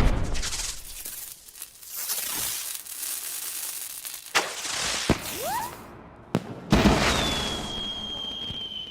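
Fireworks going off: sharp bangs and a crackling hiss, two short rising whistles about five and a half seconds in, then a long whistle from about seven seconds in that drops slightly in pitch and holds.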